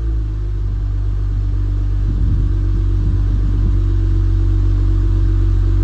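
2018 Jeep Wrangler Unlimited Sport's exhaust, the engine settling to a steady idle with a deep, low rumble right after a rev.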